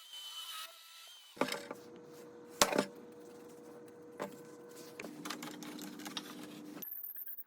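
Woodworking sounds: sharp wooden knocks and clacks over a steady machine hum. The hum starts about a second and a half in, drops in pitch partway through and cuts off abruptly shortly before the end.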